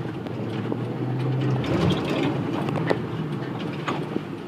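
Engine of a manual-gear vehicle running as it is driven slowly, a steady low hum with scattered knocks and rattles over it.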